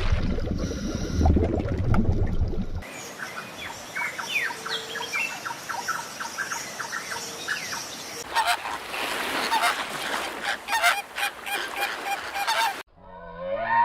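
A flock of fowl, likely geese, making many short repeated calls over a noisy background, after a loud low rumble in the first three seconds. Near the end the sound cuts off abruptly and a single drawn-out call with a rising pitch begins.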